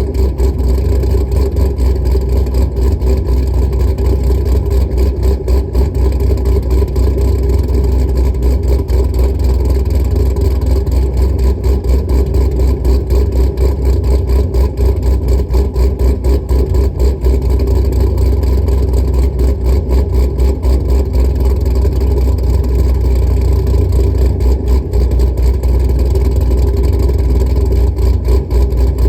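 Chevrolet Camaro SS's modified V8 idling loudly after a cold start, a steady, deep, slightly uneven running.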